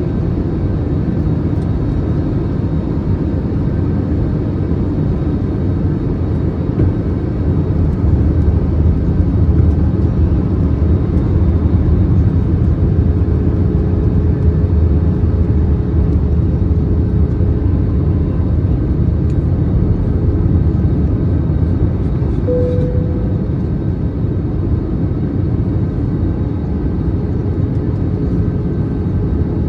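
Steady low rumble inside an Airbus A321-211 airliner's cabin on final approach: airflow and the CFM56 engines, with a faint steady hum. A brief higher tone sounds about two-thirds of the way through.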